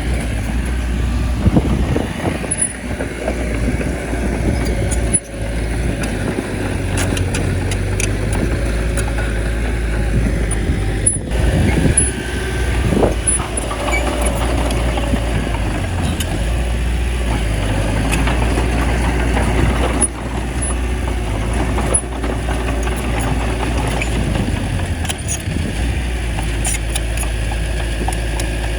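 Bulldozer's diesel engine running steadily under load, with scattered metallic knocks and clanks.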